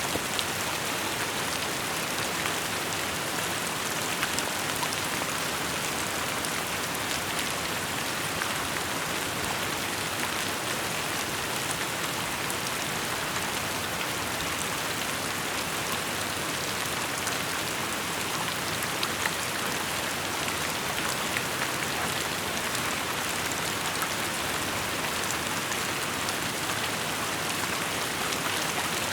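Steady rain falling and pattering on surfaces: an even hiss with scattered individual drop ticks.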